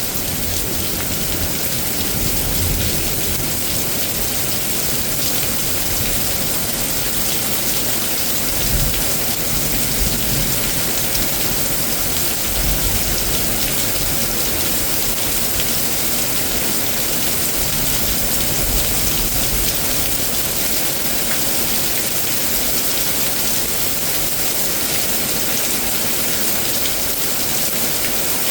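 Heavy, steady rain from a severe thunderstorm pouring down and hitting surfaces, with a few brief low rumbles in the first half.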